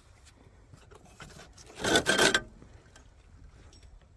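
A short scraping rub about two seconds in, a part being worked or moved by hand, against a low background.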